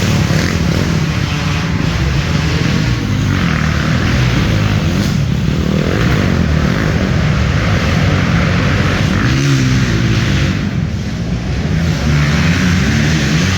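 Several dirt bike engines running and revving, their pitch rising and falling as the bikes ride the track.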